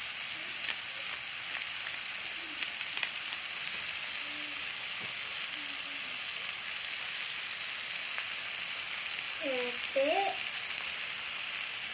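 Onion, tomato and spice masala frying in hot oil in a pan: a steady sizzling hiss, with faint ticks of stirring.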